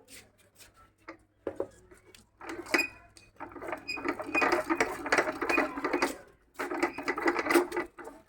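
Rapid mechanical clicking and rattling in two stretches of a few seconds each, with a short break between them and scattered single clicks before.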